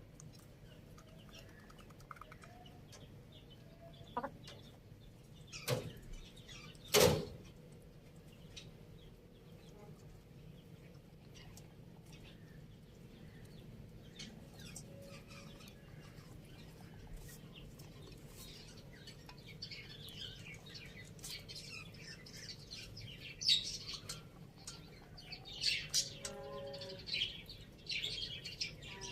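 Chickens feeding, with a few sharp knocks in the first half, the loudest about seven seconds in. Scattered high chirps and soft clucks come in the last several seconds.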